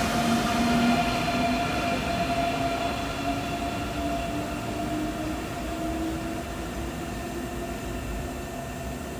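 A train running at a station, with a motor whine that rises slowly in pitch while the whole sound fades, as the train pulls away.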